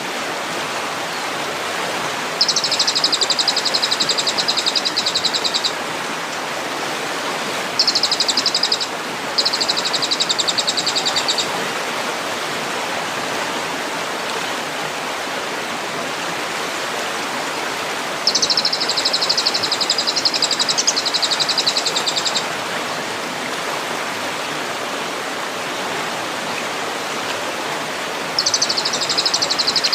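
Songbird masteran recording: a bird's high, very fast trill in five bursts of one to four seconds each, over a steady rushing noise like running water.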